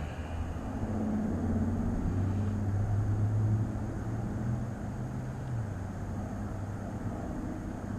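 Steady low mechanical hum over wind noise on the microphone. The hum grows stronger about a second in and drops back about five and a half seconds in.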